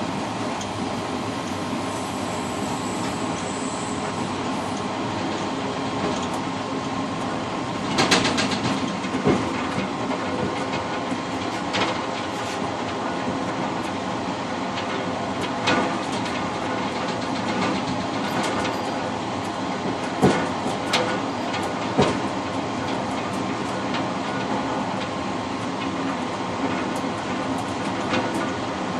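Passenger train running, heard from inside the rear car's cab vestibule: a steady rolling rumble with a faint steady whine. Sharp knocks from the wheels come at irregular moments, the loudest about twenty seconds in.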